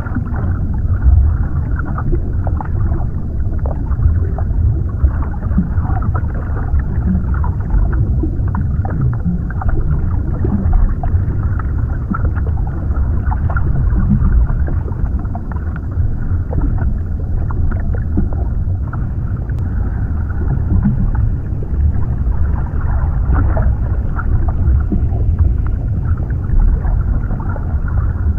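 Underwater ambience: a steady, muffled low rumble of water with soft bubbling and gurgling through it.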